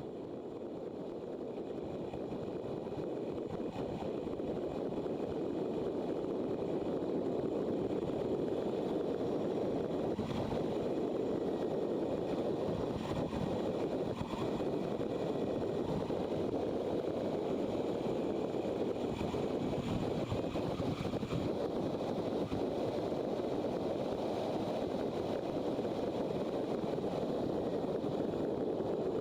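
Motorcycle on the move: a steady rush of wind and engine noise on the microphone, growing louder over the first several seconds and then holding even.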